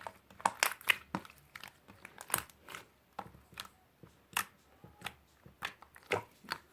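Close-up crisp crackles and crunches, irregular, roughly one to three a second.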